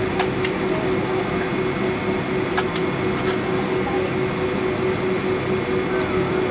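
Boeing 757-300's jet engines running steadily, heard inside the airliner's cabin as an even drone with a constant hum and a few faint clicks.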